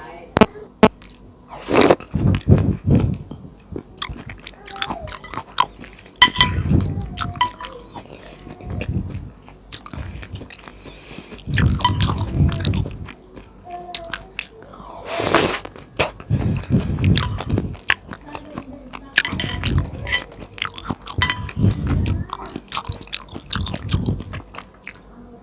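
Close-miked eating: bites and chewing come in clusters every few seconds, with small wet mouth clicks in between.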